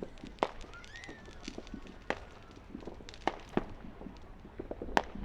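Fireworks or firecrackers going off: a scatter of sharp, irregular pops and cracks, with the loudest bang near the end.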